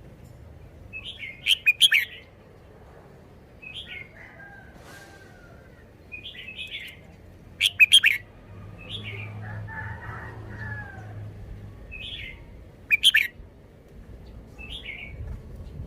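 Red-whiskered bulbul singing short, chirpy phrases, one every two to three seconds. Three times, a quick loud cluster of sharp clicks cuts in, louder than the song.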